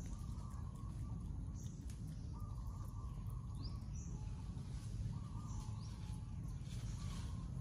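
Outdoor ambience of birds calling, with repeated short notes and brief high chirps scattered throughout, over a steady low rumble.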